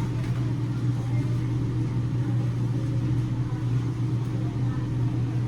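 A steady low hum from a running motor or appliance, unchanging throughout.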